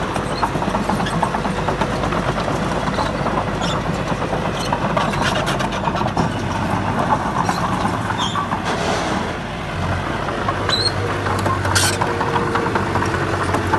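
Heavy diesel engine of earthmoving machinery running steadily, with scattered short clanks and clicks. The engine note changes about ten seconds in.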